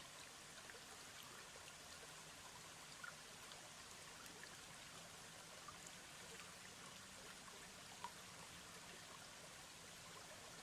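Faint, steady rush of a mountain stream, with a few small ticks over it.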